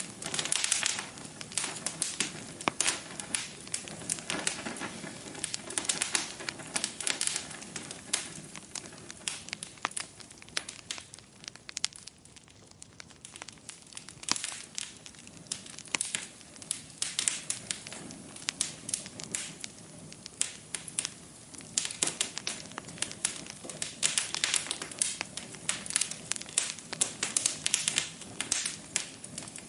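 Wood fire in a fireplace crackling and popping continuously over a low hiss, dying down for a couple of seconds about twelve seconds in before picking up again.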